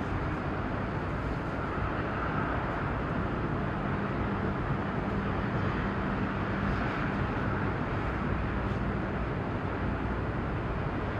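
Steady harbour background noise: a low engine rumble with a faint steady hum that holds for several seconds in the middle.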